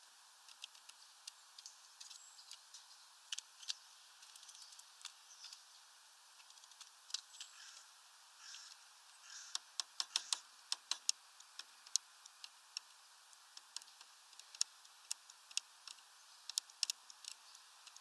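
Irregular sharp light ticks and taps from a small bird on a branch feeder, coming thickest about ten seconds in.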